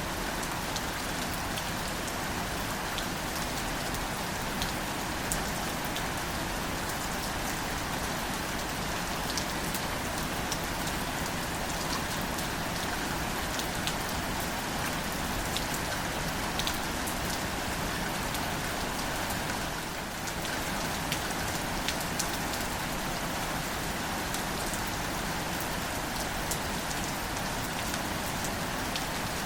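Steady, gentle rain falling on wildflowers and foliage: an even hiss with many separate drops ticking sharply close by.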